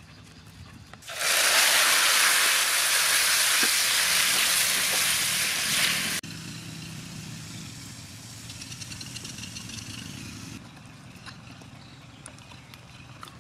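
Small whole squid sizzling loudly in hot oil in a wok as they are stirred with a metal spatula, for about five seconds before cutting off abruptly. After that comes a much quieter stretch with faint high chirps and small clicks.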